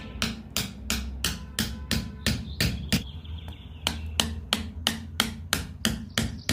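Small hammer tapping in a steady rhythm, about three strikes a second, with background music under it.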